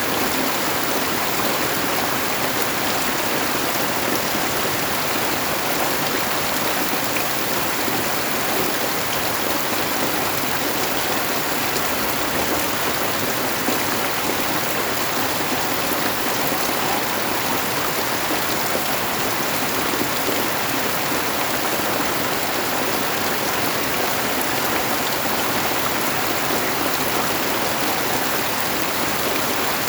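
Steady rain falling, a dense even hiss of many drops that holds at one level without let-up.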